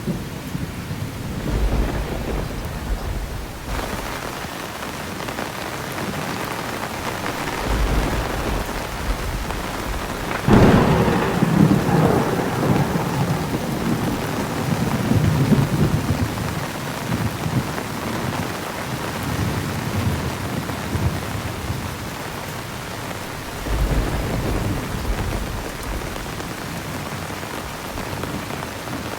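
Thunderstorm: heavy rain falling steadily, with several rolls of thunder. The loudest is a sudden crack about ten seconds in that rolls into a long rumble; shorter deep rumbles come near the start, about eight seconds in and near the end.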